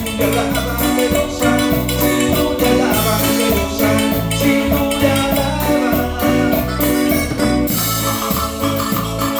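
A cumbia band playing an instrumental passage: a bass line and percussion, including shakers, keep a steady rhythm under a melody line.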